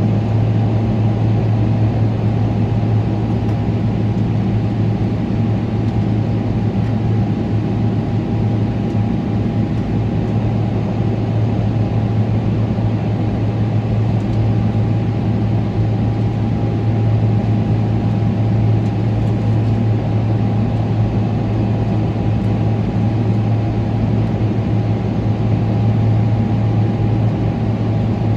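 Steady cabin noise inside a Boeing 777-300ER with its GE90 engines running: an unbroken low hum with a faint steady tone above it.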